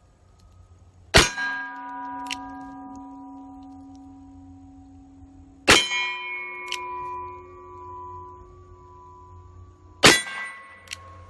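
Three shots from a .38 Special revolver (Uberti Lightning, a copy of the Colt 1877 double action), about four and a half seconds apart, each followed by the long metallic ringing of steel target plates that were hit. A fainter sharp tick comes about a second after each shot.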